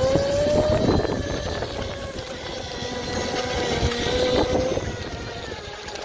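OSET electric kids' motorbike's motor whining steadily as it is ridden, over a rough low rumble with a few knocks. The whine fades about five seconds in.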